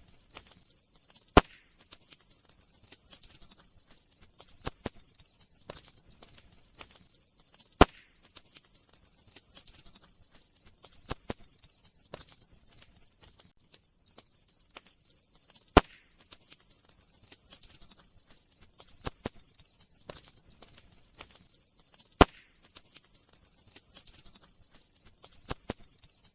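Campfire crackling: scattered small clicks and pops over a faint steady hiss, with four much louder sharp pops several seconds apart.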